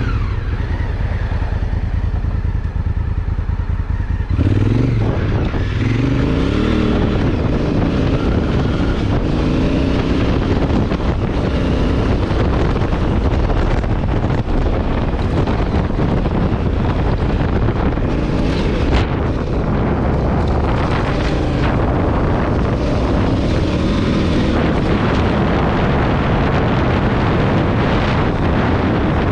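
Honda Africa Twin CRF1000L's parallel-twin engine under way: steady at first, then opened up hard about four seconds in, the pitch climbing as the bike accelerates, then running on at speed with wind buffeting the microphone.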